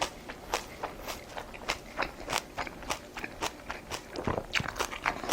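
A person chewing food close to the microphone: crisp crunching and wet smacking, several short clicks a second.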